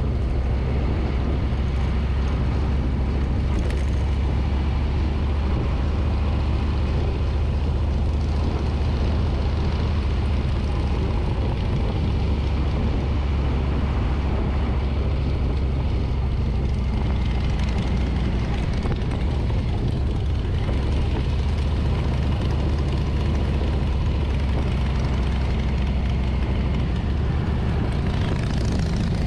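2024 Harley-Davidson Street Bob's Milwaukee-Eight 117 V-twin running steadily under way, heard from the handlebars with a constant rush of wind and road noise.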